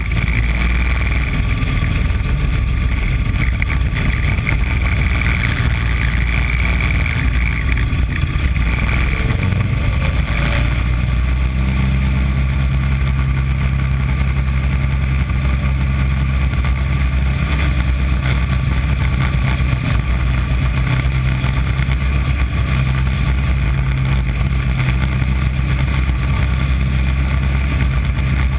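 The small engine of a mini Corvette race car running steadily at speed, heard from a camera on the car's nose, with wind noise over it. Its note shifts about a third of the way in.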